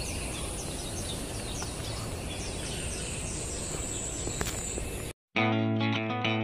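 Outdoor park ambience: a bird calling with a string of short, high, falling chirps, two or three a second, over steady background noise. About five seconds in the sound cuts off abruptly and guitar music begins.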